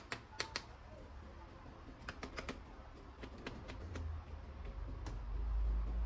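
Light plastic clicks and taps from toy guns and their parts being handled, irregular and bunched in small runs, with a low handling rumble that swells near the end.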